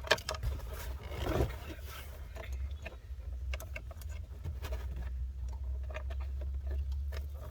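Scattered clicks and light knocks of center console trim parts being handled and fitted, over a steady low hum.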